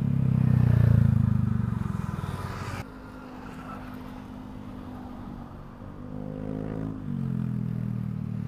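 Honda Vario 125 scooter's single-cylinder engine through a CLD C3 racing exhaust with no dB killer. It is revved, loudest about a second in, and the throttle is closed just before the three-second mark. It then runs at a lower steady idle, with a short rev blip near the end.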